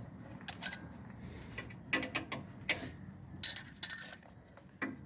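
Metal tools and parts clinking as they are handled and set down, about eight sharp clinks with a short metallic ring, the loudest a pair about three and a half seconds in.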